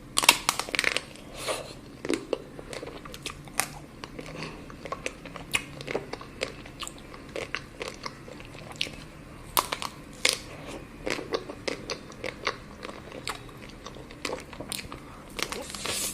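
Chocolate being bitten and chewed close to the microphone: a steady run of sharp, irregular crunches, the loudest just after the start and about ten seconds in.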